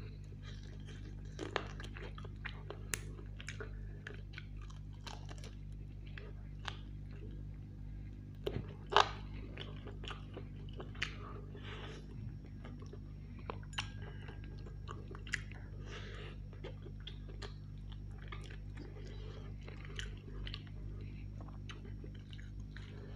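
A man chewing and biting roast chicken close to the microphone: wet mouth sounds with scattered short sharp clicks, the loudest about nine seconds in, over a steady low hum.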